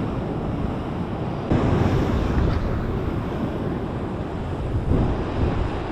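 Ocean waves breaking against the rocks, with a wave surging in about a second and a half in, and wind buffeting the microphone.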